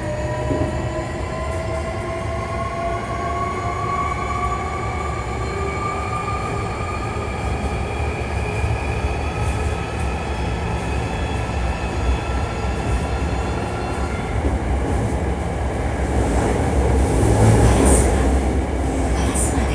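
Hankyu 1300 series electric train accelerating underground, heard from inside car 1858, which is known for its unusual motor sound. Its traction-motor whine rises steadily in pitch as several layered tones. About 14 seconds in the whine fades out and the rumble and hiss of the wheels grow louder.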